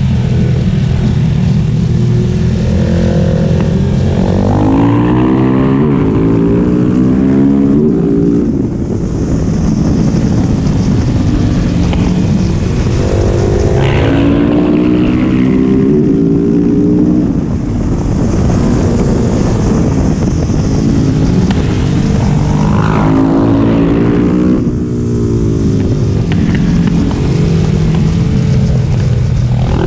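Large single-cylinder supermoto motorcycle engine running loud, its revs climbing and falling back several times over.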